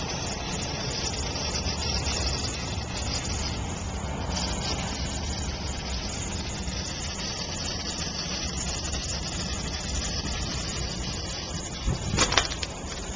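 Hissing and fizzing of gas escaping from opened, partly frozen soda bottles, strongest in the first few seconds and then weaker. A few sharp knocks near the end.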